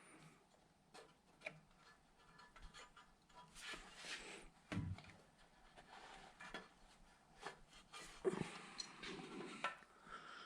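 Faint, scattered clicks, light knocks and rustling from parts and hand tools being handled during work on a vehicle, with a slightly louder knock about five seconds in and another a little after eight seconds.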